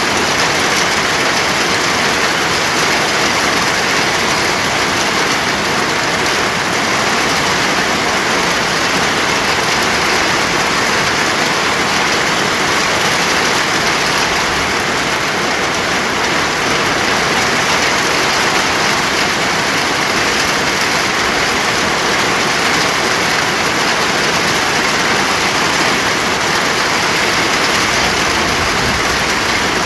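Steady heavy rain pouring down in an even, unbroken hiss.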